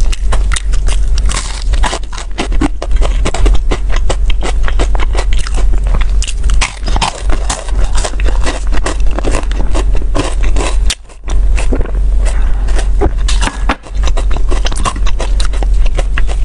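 Close-miked chewing of a crisp-crusted taiyaki (fish-shaped pastry): a dense, continuous run of crackling, crunchy mouth sounds, with two short breaks in the second half.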